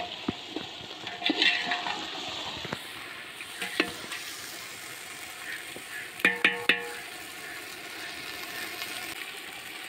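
Onions and tomatoes frying with a steady sizzle in a large aluminium pot while a perforated metal ladle stirs and scrapes through them. About six seconds in the ladle clinks against the pot three times in quick succession with a short metallic ring, then only the sizzle goes on.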